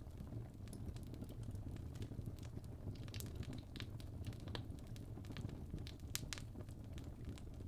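Wood fire in a fireplace crackling: a steady low rumble of flame with irregular sharp pops and snaps, clustered about three seconds in and again near six seconds.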